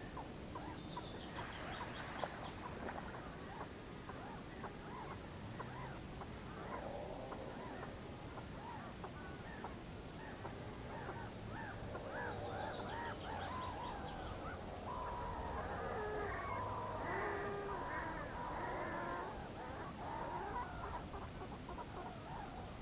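Whooper swans and other waterbirds calling over one another in a continuous chorus of many overlapping calls, busiest in the second half.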